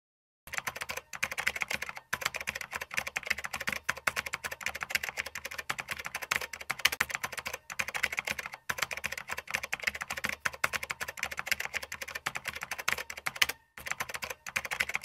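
Typing sound effect: a fast, continuous run of computer keyboard key clicks, broken by a few brief pauses, one of them about two seconds in and one near the end.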